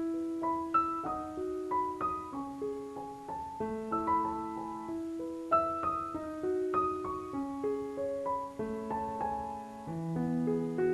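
Background piano music: a slow melody of single struck notes over held chords, with a lower bass line entering near the end.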